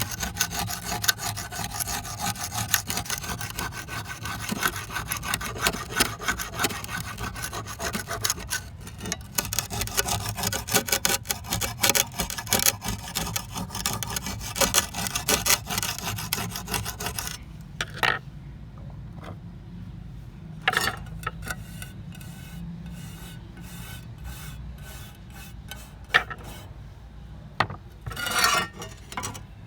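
Rapid back-and-forth abrasive hand strokes rubbing rust off an old trowel. The strokes are continuous for a long stretch, then become sparser, coming in short spells with brief pauses in between.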